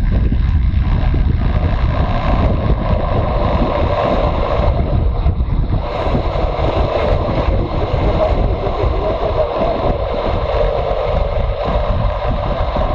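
Motorcycle engine running under way, mixed with wind rushing over the microphone, a steady loud rumble with no clear revving.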